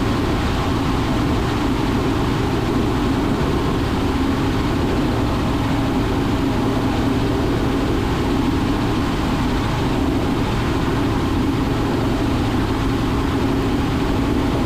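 Cabin sound of a Robinson R44 Raven II helicopter in cruise flight: the steady drone of its six-cylinder Lycoming piston engine and rotor, unchanging throughout.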